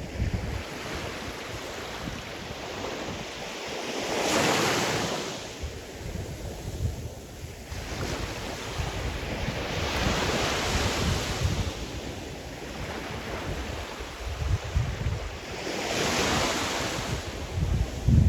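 Sea surf: three waves break and wash out about six seconds apart, each a swelling then fading rush of noise, with gusts of wind buffeting the microphone underneath.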